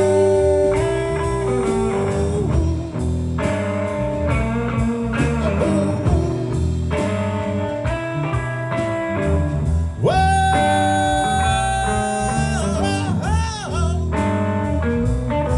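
Live blues-rock band playing an instrumental passage: a repeating bass-and-guitar riff over a steady drum beat, with long held lead notes. Near the end a high held note gives way to bent, wavering notes.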